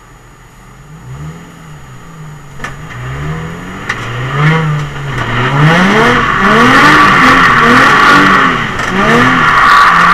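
Nissan 350Z's V6 heard from inside the cabin, revved up and down repeatedly under throttle while drifting. From about halfway, a loud steady screech of sliding tyres runs under the engine.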